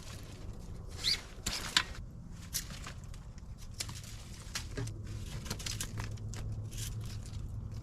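A green wooden stick being cut and trimmed into a roasting stick, with irregular scraping and cracking strokes.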